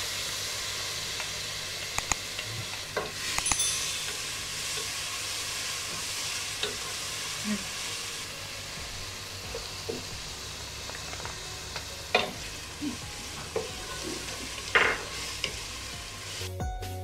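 Ginger and garlic sizzling in hot ghee with fried onions, stirred with a wooden spoon that knocks and scrapes against the pot now and then.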